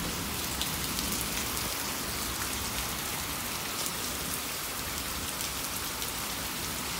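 Steady rain falling on a wet street, with scattered short, sharp drop hits.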